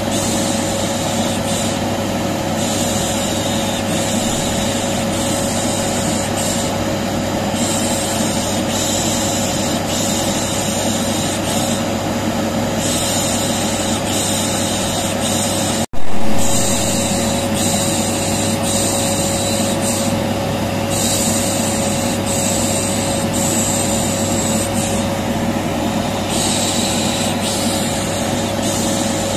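Vacuum cleaner motor running steadily with a constant hum, overlaid with a baby-soothing 'shh' shushing sound. About halfway it cuts out for an instant and comes back louder for a moment before settling.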